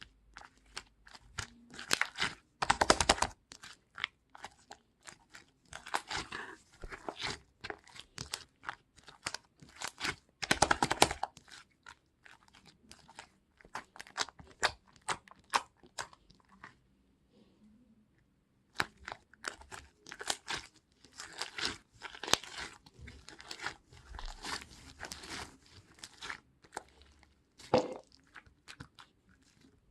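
Close, irregular crunching and crackling: dense runs of small clicks, with a few louder clusters about three, eleven and twenty-eight seconds in, and a brief lull a little past the middle.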